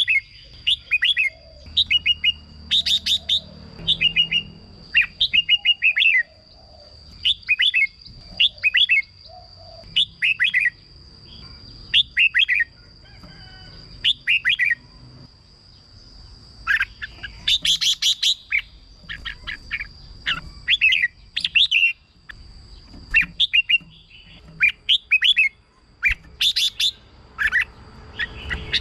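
Red-whiskered bulbul singing short, repeated whistled phrases, about one every second, with brief pauses between. A faint, steady high whine runs underneath.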